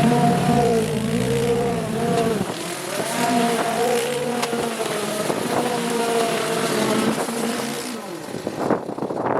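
Small petrol engine of a garden power tool running, its speed rising and falling as it works, then dropping away near the end, with a few sharp knocks.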